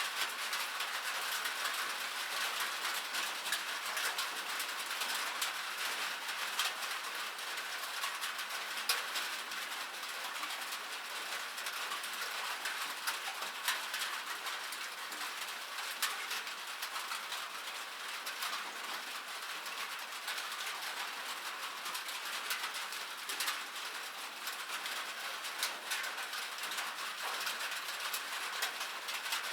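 Steady rain on a metal surface: a dense hiss full of sharp, irregular drop ticks.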